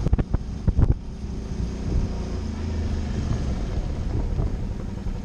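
Suzuki V-Strom motorcycle's engine running steadily while riding, with a few sharp thumps in the first second.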